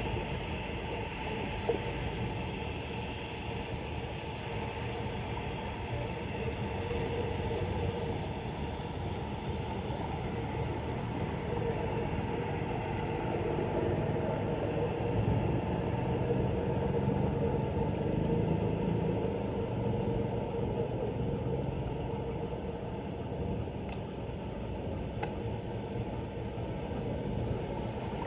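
Floodwater rushing down a street drain: a steady, low rumble, with a couple of faint clicks near the end.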